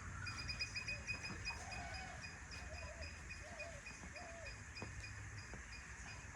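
Birds calling: a quick series of short high chirps repeating, with four short wavering calls in the middle, over a low rumble.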